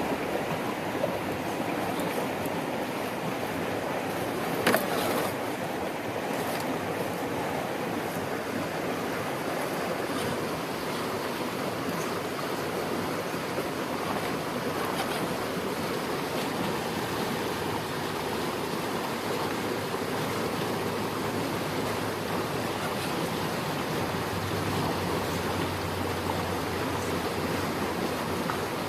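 Swiftly running creek water rushing steadily. A single sharp knock comes about five seconds in, and a low hum is heard for a few seconds near the end.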